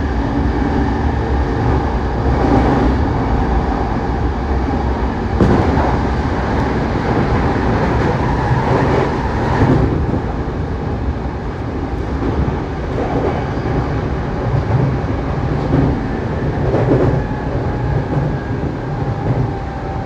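JR Saikyo Line electric commuter train running at speed, heard inside the car: a steady rumble of wheels on rail, with a few sharp clacks as it passes over rail joints.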